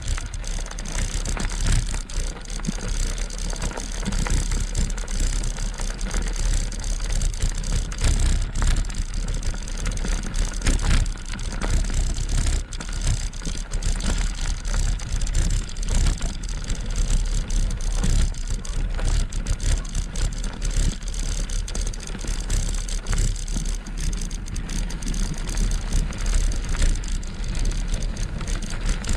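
Wind buffeting the microphone of a GoPro mounted on an e-bike while riding, with a heavy low rumble and road noise. Frequent small knocks and rattles from the bike run through it.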